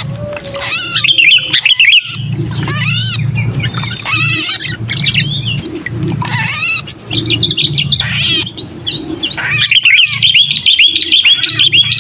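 Sooty-headed bulbuls (kutilang) giving harsh, agitated distress calls, the 'pinched' call of a trapped bulbul used as a lure, in quick strings of chirping notes that come thickest near the start and through the second half. A steady low hum runs underneath.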